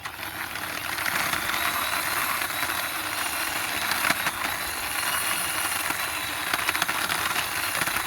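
Toy bus's plastic wheels rolling steadily along a hard surface as it is pushed by hand, a continuous grinding rattle with a few small clicks.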